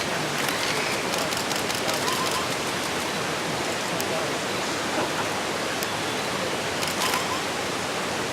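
Steady rushing water, with a couple of faint short bird calls about two seconds in and again near seven seconds.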